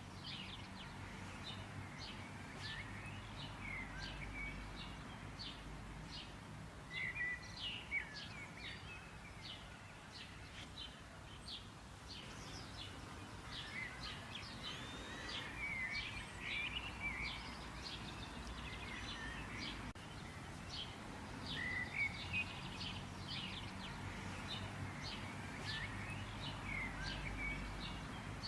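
Several small birds chirping and calling in quick, short notes, over a steady low rumble.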